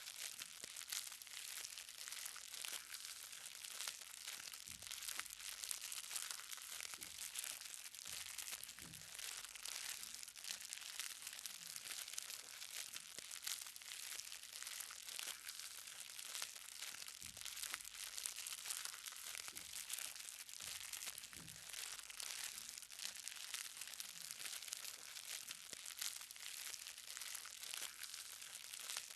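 Light rain, a steady dense patter of small drops hitting the ground, with a few heavier drops landing now and then.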